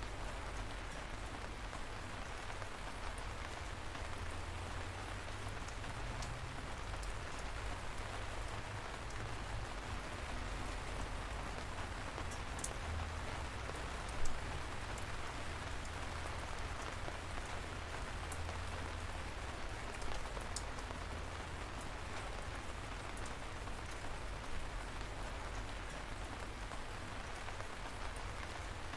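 Light, steady rain falling on a surface, an even patter with scattered sharper drops and one louder drip about halfway through.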